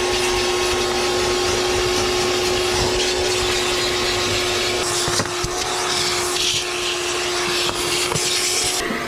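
Vacuum cleaner running steadily, sucking up loose dry debris from a truck's floor. Its motor note shifts slightly a few times in the second half.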